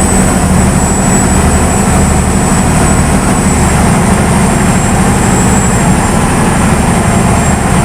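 Khlong Saen Saep canal commuter boat's engine running loud and steady under way, with a constant rushing noise over it and a thin, steady high whine.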